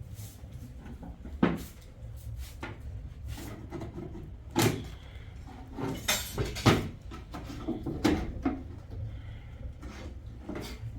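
Irregular knocks and clunks of objects being handled and set down, the loudest about one and a half, four and a half, six and eight seconds in, over a steady low rumble.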